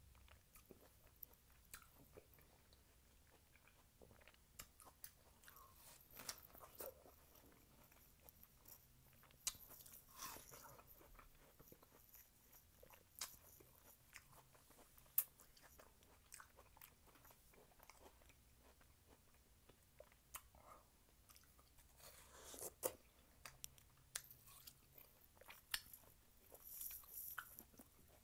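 Faint close-miked chewing of crisp watermelon: scattered wet crunches and mouth clicks, with thicker bursts of crunching about ten seconds in and again a little past twenty.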